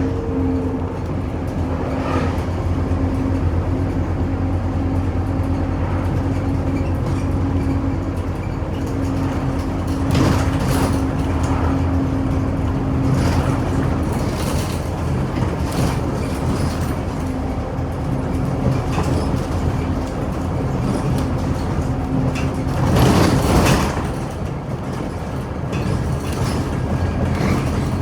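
Scania Omnicity city bus running on the road, heard from inside the bus: a steady low engine drone with a held whine that dies away about 22 seconds in. A louder rush of noise follows a second later.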